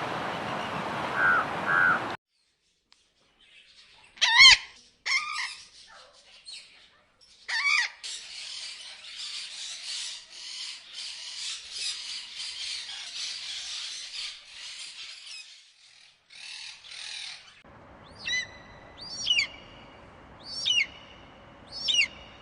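Birds of several kinds calling in turn: a few loud harsh calls, then a long stretch of dense chattering, then four short downward-sliding whistled calls about a second apart near the end.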